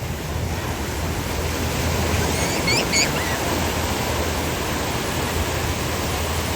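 Ocean surf washing steadily onto the beach, with wind rumbling on the microphone. A few brief high-pitched chirps come through about two and a half to three seconds in.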